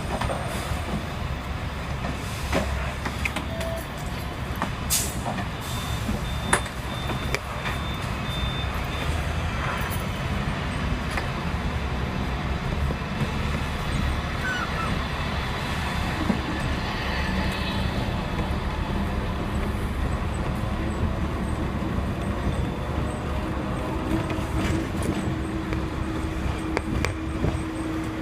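Hong Kong double-decker electric tram running along street track: a steady rumble with scattered clicks and knocks. A low steady hum comes in near the end.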